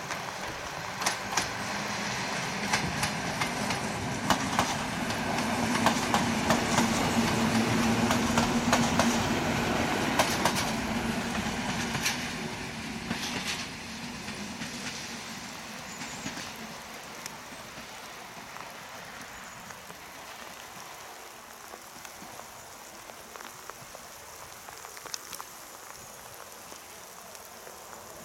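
EN57 electric multiple unit passing by, with a low steady hum and repeated sharp clicks from the wheels on the rails. It is loudest about six to ten seconds in, then fades away as the train recedes, leaving only faint background for the last ten seconds.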